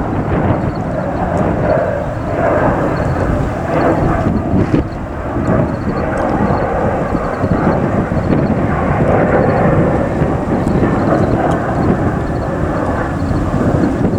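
Jet airliner engines running, a loud steady noise that holds through the whole stretch.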